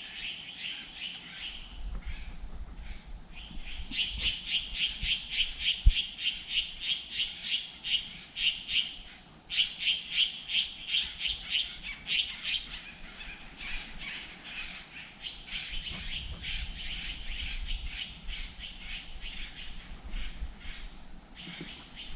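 A bird calling in long runs of rapid, sharp, repeated notes, about three a second, in bouts that grow fainter after the first half. A steady high-pitched hum runs underneath.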